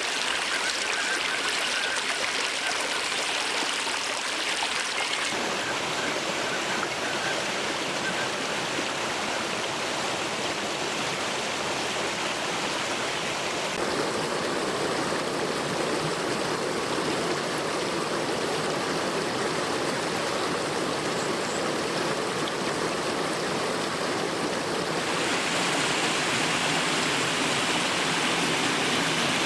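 Waterfall and stream water rushing over rocks in a steady, even rush. Its tone changes abruptly three times, about 5, 14 and 25 seconds in.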